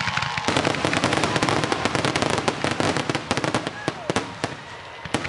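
Aerial fireworks: a dense, rapid crackling of many small cracks from the glittering shells, thinning out near the end, with two sharp bangs just before it ends.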